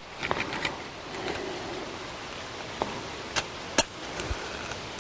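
A match struck to light a campfire, with the fire catching: a steady hiss broken by a few sharp clicks and crackles, the loudest a little before four seconds in.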